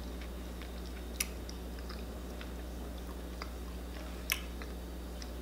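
A person chewing a soft, creamy homemade chocolate egg with her mouth closed: faint wet mouth clicks, two sharper smacks about a second in and near the end, over a low steady hum.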